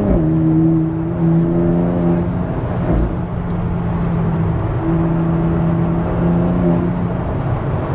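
Car engine and exhaust at highway speed, heard from the car: the revs drop sharply right at the start as it shifts up, then the engine holds a steady drone, briefly wavering about three seconds in. The car is a BMW X3 M Competition with the S58 twin-turbo straight-six.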